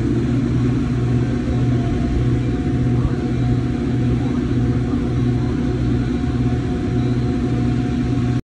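Steady low rumble of an idling vehicle engine heard from inside a car cabin, with a deep hum that swells about every two-thirds of a second. It cuts off suddenly near the end.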